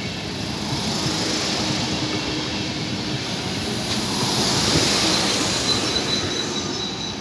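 Deutsche Bahn InterCity passenger coaches rolling past at low speed, wheels rumbling on the rails. The rumble grows loudest about five seconds in as the last coach goes by. A high, steady squeal from the wheels comes in near the end.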